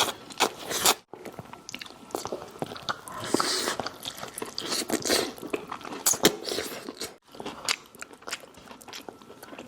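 Close-up crunching and chewing of crispy fried chicken: irregular crisp crackles of bites and chewing, broken by a couple of brief gaps.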